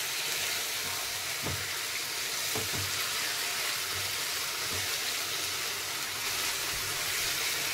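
Mutton keema with halved potatoes and fenugreek frying in oil in a kadhai, a steady sizzle, while a spatula stirs the mix with a few soft scrapes and taps.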